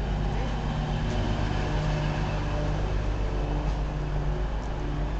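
A train running at a station platform: a steady engine hum over a low rumble.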